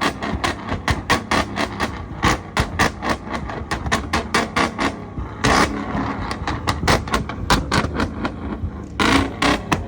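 A rapid, irregular series of sharp bangs or cracks, several a second, with a few heavier, longer bursts about five and a half and nine seconds in.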